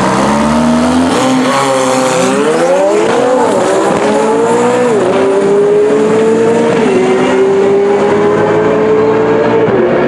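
A high-performance car's engine accelerating at full throttle through a quarter-mile pass. The engine note climbs and drops sharply at about five upshifts, and each gear runs longer than the last.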